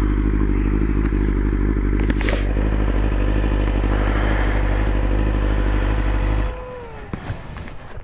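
2020 BMW S1000RR's inline-four engine idling steadily, then switched off about six and a half seconds in, with a faint whine falling away after it stops.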